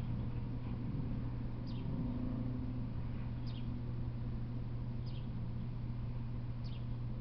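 A bird repeating a short, high call that slides downward, about once every second and a half, over a steady low hum.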